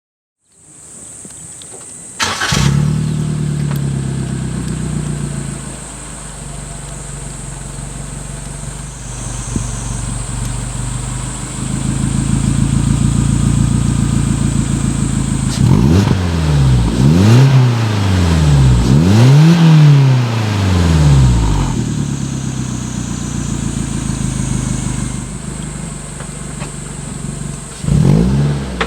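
Suzuki Jimny Sierra JB74's 1.5-litre four-cylinder engine breathing through an APIO Shizuka Gozen aftermarket muffler. It is cranked and catches about two seconds in, runs at a raised idle that settles, is revved three times in quick succession about halfway through, then idles again, with one more short rev near the end.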